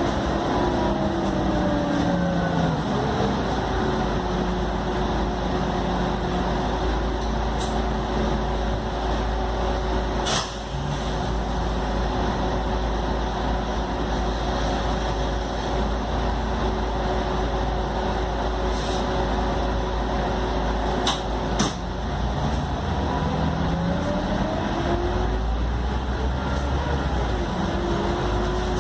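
Scania K310UD double-decker bus running. The drivetrain whine falls in pitch as the bus slows over the first few seconds, holds steady while it cruises, then rises again as it accelerates over the last several seconds. There are a few sharp knocks along the way, one about a third of the way in and two more past two-thirds.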